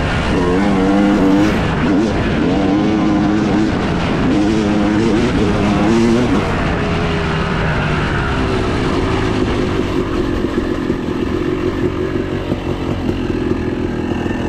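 Yamaha YZ250 two-stroke dirt bike engine revving up and down repeatedly as the throttle is worked, then running at a steadier pitch from about halfway through.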